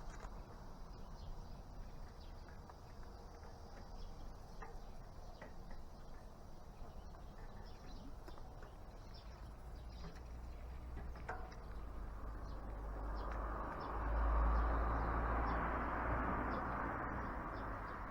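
Outdoor ambience of steadily buzzing insects with scattered small ticks, under a low rumble of wind on the microphone that grows louder near the end.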